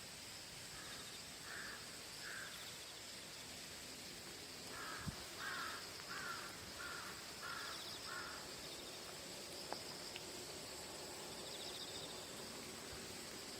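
A crow cawing in two runs of evenly spaced calls, three and then about six, over a steady high insect chirring. A single short thump comes about five seconds in.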